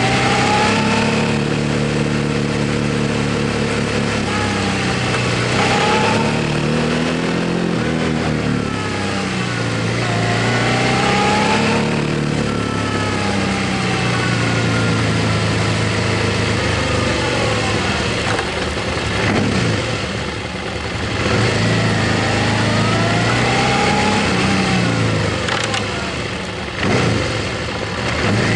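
Motorcycle engine under way, its pitch climbing and then dropping back several times as it is revved up through the gears, over a steady rush of riding noise.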